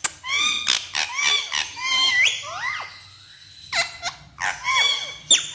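Pet parrot giving a run of short, shrill calls that slide up and down in pitch, falling quiet for a moment past the middle before calling again near the end.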